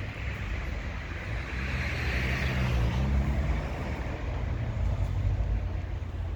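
A car engine running close by, its low hum rising a little in pitch as a rush of road noise swells about two seconds in and then eases.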